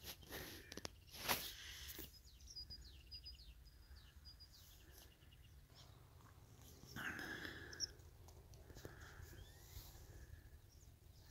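Faint outdoor birdsong: quick, high chirps and trills from small birds. A few sharp clicks come in the first two seconds, and a brief rustle about seven seconds in.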